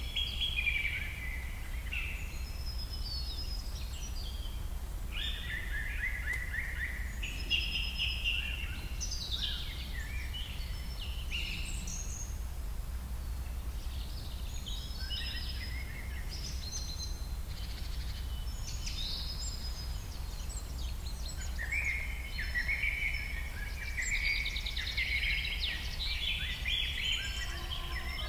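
Birds chirping and singing in quick, irregular phrases, over a steady low hum.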